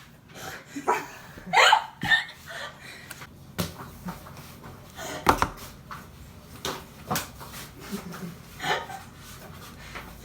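Scattered sharp knocks and clatter of kitchen utensils and dishes being handled, with a few short non-speech vocal sounds in between.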